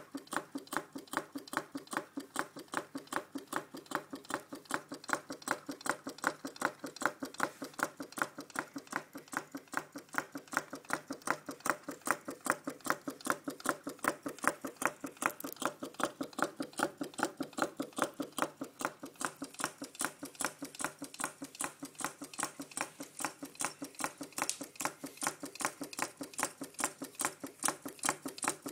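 Small Stirling engine running steadily, its mechanism making a rapid, even clicking with every turn.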